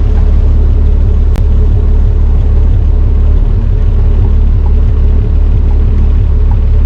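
A boat's inboard engine running steadily under way, with a heavy low rumble and a steady hum above it. There is a single click about a second and a half in.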